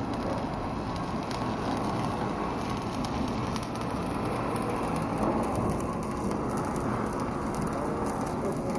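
Anchor windlass heaving in the anchor chain: a steady, dense rattle and rush, thick with small clicks.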